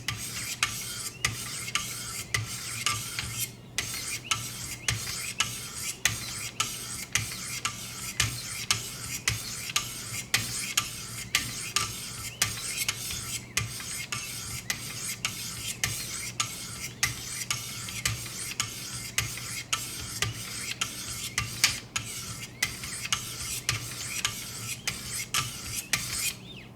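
A 600-grit sharpening stone stroking along a VG-10 knife blade's edge in a steady rhythm of about two rasping strokes a second.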